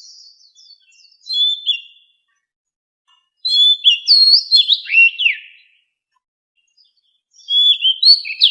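Oriental magpie-robin singing wild-type song: three phrases of quick, clear whistled notes that slide up and down, separated by pauses of a second or two.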